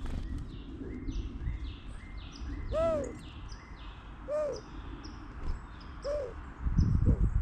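Several small birds chirping rapidly in high, quick falling notes, with three short, lower, arching calls about a second and a half apart. A low rumble comes in near the end.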